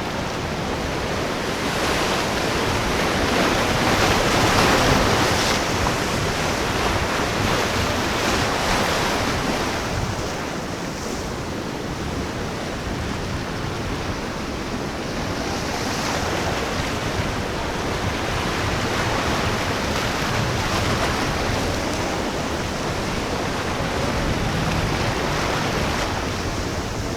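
Ocean waves breaking and surf washing in slow surges, with wind blowing on the microphone; the loudest surge comes about four to five seconds in.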